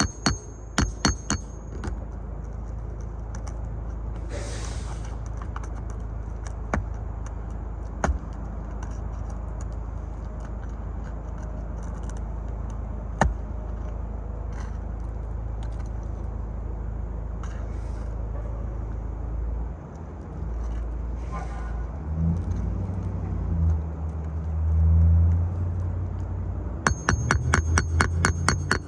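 Rapid, evenly spaced hammer strikes, about five a second, on roofing work during a shingle repair, at the start and again near the end. In between there is a steady low rumble with scattered clicks and scrapes. A louder low rumble swells about three-quarters of the way through.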